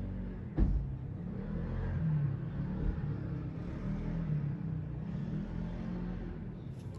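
A low rumble with a wavering hum, like an engine, and a single knock about half a second in.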